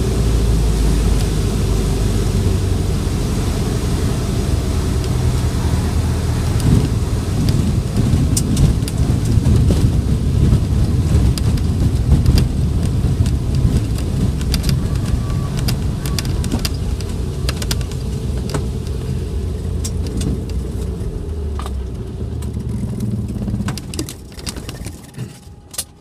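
Cessna 185 floatplane's six-cylinder piston engine and propeller running steadily at low power, heard inside the cabin, with scattered sharp knocks midway. Near the end the engine winds down and stops.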